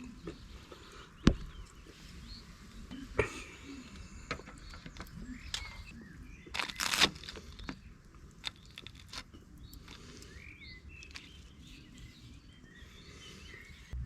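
Birds chirping in the background, with a sharp knock just over a second in, another about three seconds in, and a short crunching rustle around seven seconds.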